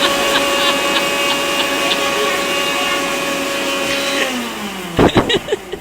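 Electric kitchen blender motor running at a steady high whine, then winding down with a falling pitch about four seconds in. A loud, sudden clatter follows near the end.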